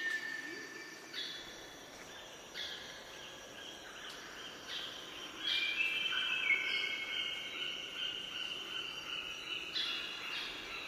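Birds singing: short pitched calls every second or two, with a longer held phrase of several notes about halfway through.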